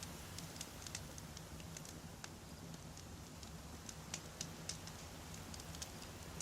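Wood campfire burning, with frequent small sharp crackles and pops from the logs over a steady low rumble of the flames.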